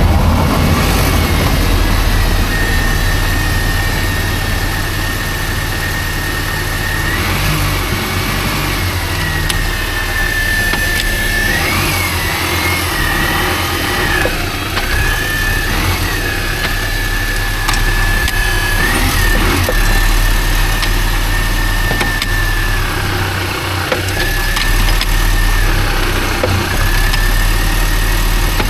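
Mini Cooper S R52's supercharged four-cylinder engine running, with a steady high whine that dips and rises in pitch and a few faint knocks; the car has a front-left knock that the owner suspects comes from the driveshaft.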